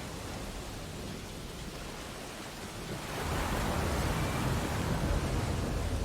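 Ocean waves breaking on a beach: a steady wash of surf, swelling louder about three seconds in as a wave breaks.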